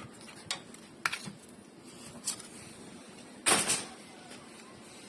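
Sharp clicks and knocks of tools and parts being handled during a car sunroof repair, with a louder short clatter about three and a half seconds in.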